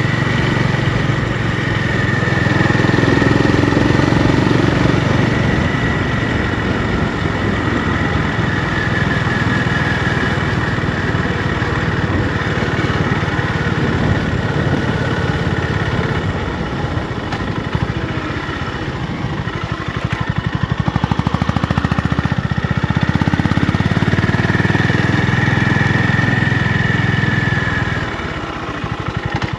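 Honda GB350's air-cooled single-cylinder engine running, its exhaust note easing and swelling in loudness, with a dip near the end.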